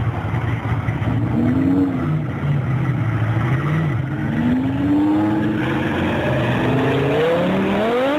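Car engine running and revving, its pitch rising and falling several times, then climbing steeply near the end.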